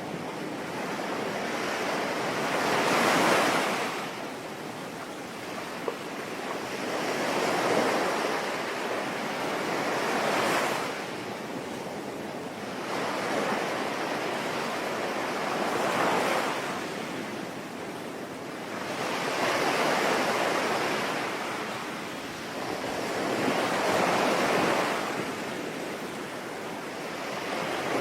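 Sea waves breaking and washing in, each swell rising and falling every four to five seconds over a steady hiss that may be the rain.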